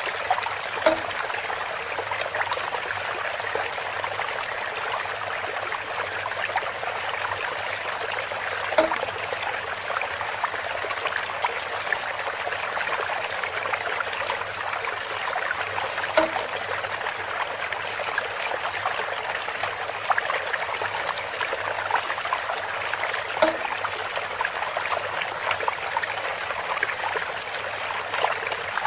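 Water trickling and splashing steadily through bamboo, with a short pitched knock four times, about every seven and a half seconds.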